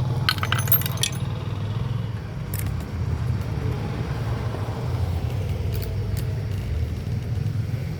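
A few sharp metallic clinks of tools and engine parts, a quick cluster in the first second and single clicks later, over a steady low rumble.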